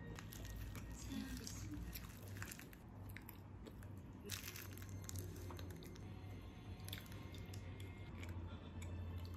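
Someone chewing a mouthful of egg bread with sandwich ham, with irregular soft mouth clicks.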